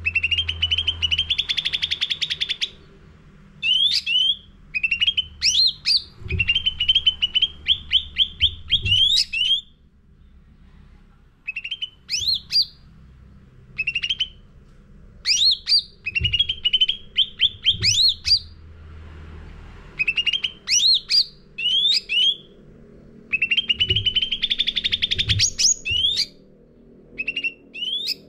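Cucak ranting songbird singing loudly in full song: phrases of rapid chattering trills broken by sharp upward-sweeping whistles, each phrase a second or two long with short pauses between, over a steady low hum.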